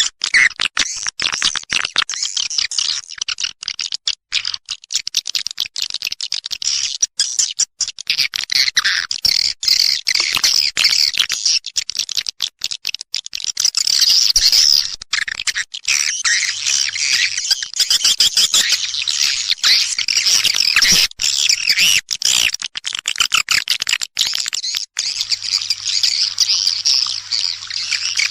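Edible-nest swiftlets calling: a dense, continuous chatter of rapid, high, twittering chirps with brief gaps. It is a swiftlet-call recording of the kind played to draw swiftlets into nesting houses.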